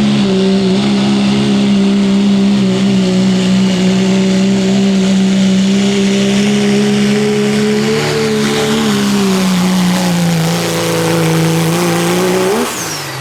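Turbo-diesel pulling truck's engine held wide open under heavy load as it drags the pulling sled, at steady high revs that sag slightly in pitch about nine seconds in, then let off abruptly near the end.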